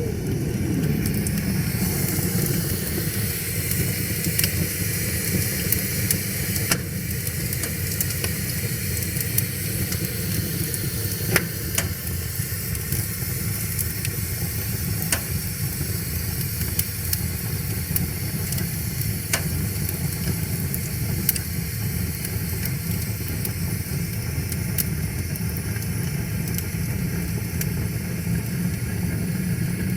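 Wood fire crackling and hissing, with sharp pops every few seconds, over the steady low rush of river water.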